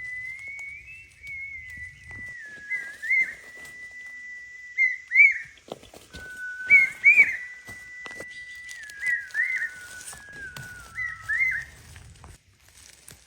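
A whistled melody of long held notes, broken by quick upward flicks and ornaments between them. It stops shortly before the end.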